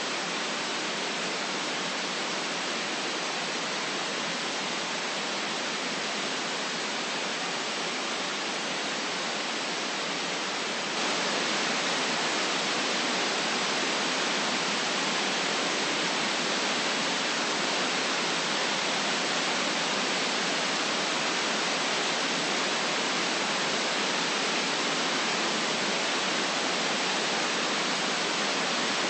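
Steady white noise: an even, featureless hiss with no low rumble. It steps up slightly in loudness about a third of the way through, then holds steady again.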